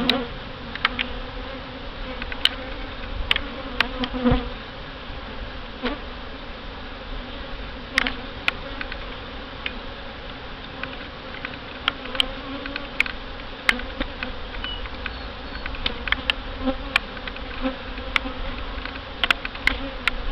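Honey bees buzzing around an open hive in a steady hum, with frequent short sharp clicks and taps through it.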